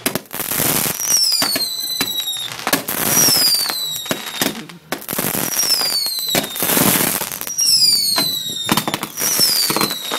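A ground-launched firework cake firing a string of whistling shots, about five in all. Each is a falling whistle about a second long, followed by a loud hissing burst, with sharp cracks in between.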